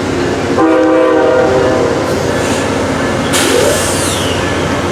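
Diesel locomotive horn giving a short blast of about a second, half a second in, over the steady running of a train. A brief hiss follows a few seconds later.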